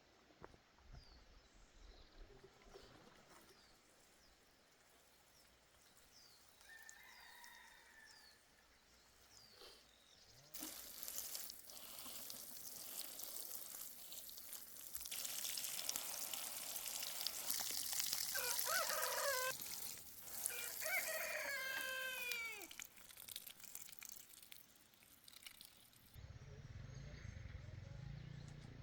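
A rooster crowing twice, about two-thirds of the way in, over a steady rushing noise that starts about a third of the way in and stops shortly before the end. Faint small-bird chirps come earlier.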